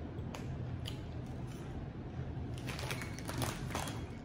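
Chewing of crunchy cheese-flavoured corn wheel snacks (Zoomers): small crunches and crackles, thickest for a second or so near the end, over a steady low hum.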